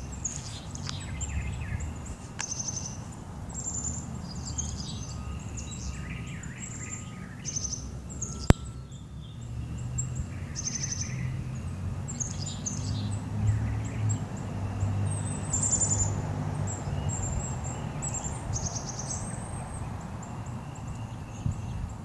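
Several small birds chirping and singing, many short high chirps and trills over a low background rumble of outdoor noise. A single sharp click comes about eight and a half seconds in.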